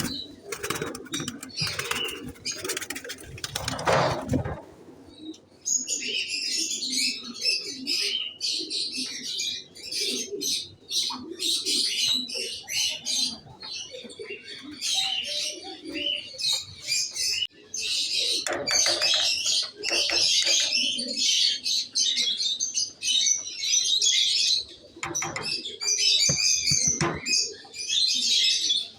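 Fancy pigeons cooing under a constant, busy chirping of many small birds. For the first four seconds there is loud wing flapping.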